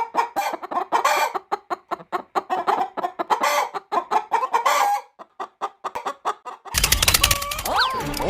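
Chickens clucking in a rapid string of short calls for about five seconds, then falling quiet. About seven seconds in, a denser, louder sound with sliding, whistle-like pitches starts.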